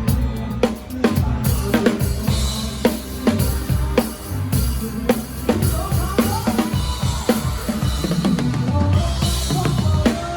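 Live drum kit played with a band: kick drum, snare and rim hits in a steady beat over the band's bass, with cymbal washes a couple of seconds in and again near the end.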